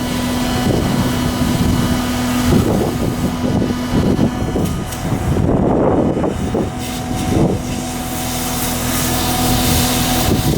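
Shipyard machinery running: a steady mechanical hum over loud, noisy clatter. The hum drops out briefly about two and a half seconds in and again for a few seconds midway.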